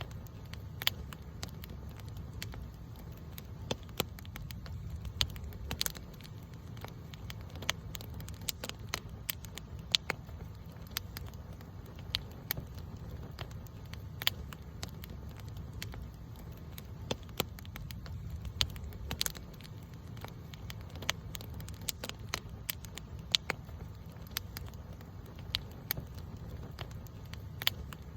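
Campfire crackling and popping: sharp, irregular pops, several a second, over a steady low rumble of burning.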